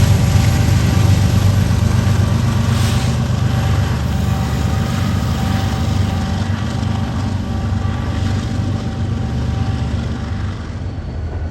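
Diesel locomotives of a BNSF coal train running past with a steady low engine drone and rolling noise, easing off slightly near the end.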